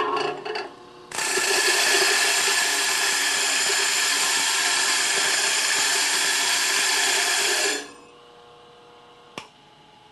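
Bench grinder's stone wheel being dressed with a star-wheel dresser: the loose steel star wheels pound and break up the spinning stone's face in a loud, harsh grinding for about seven seconds, clearing out aluminum that had loaded the stone. The dresser then comes off, and the grinder runs on quietly with one click near the end.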